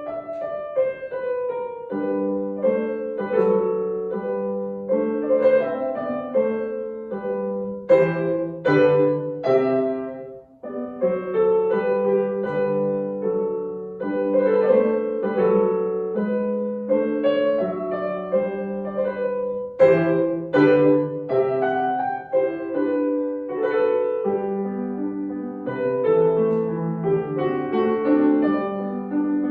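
Solo piano playing a classical piece, busy runs of notes over chords, with a short break between phrases about ten seconds in.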